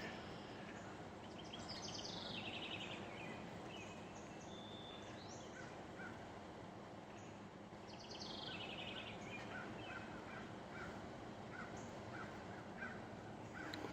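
Songbirds calling over steady outdoor background noise. There are two fast descending trills a few seconds apart, then scattered short chirps.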